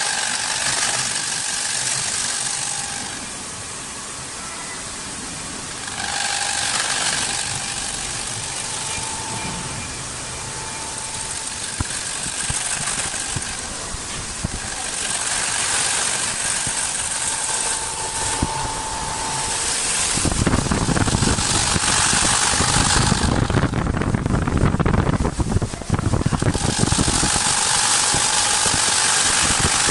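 CNC wood lathe turning wooden table legs: the cutter makes repeated passes, each a burst of hissing cutting noise with a whine, every few seconds. About two-thirds of the way in a louder, rougher noise with a low rumble joins and runs on.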